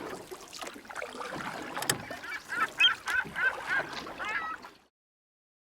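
Birds calling: a quick run of about half a dozen short, repeated calls over background noise, cutting off suddenly near the end.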